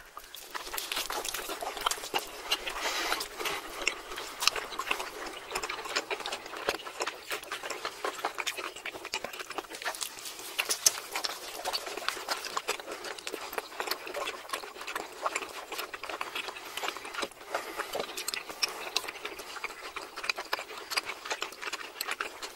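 Close-miked chewing of steak and stretchy melted cheese: a steady stream of wet, sticky mouth clicks and smacks from several eaters.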